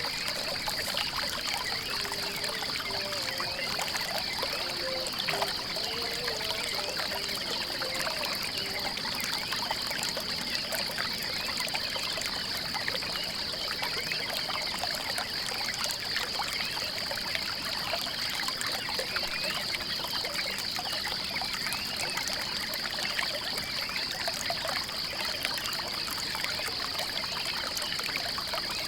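Small stream trickling and babbling steadily over stones, with a steady high-pitched pulsing trill throughout. A few short low notes sound in the first several seconds.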